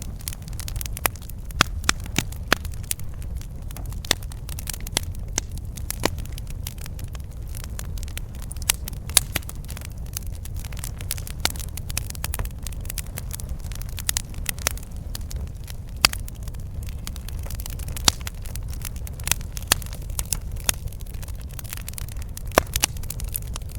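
Campfire burning, with irregular sharp crackles and pops, several a second, over a steady low rumble.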